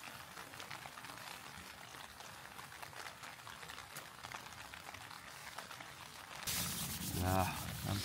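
Steady rain pattering on thin ultralight tent fabric, a soft hiss full of faint ticks. About six and a half seconds in comes a sudden burst of loud rustling, followed by a brief low pitched vocal sound.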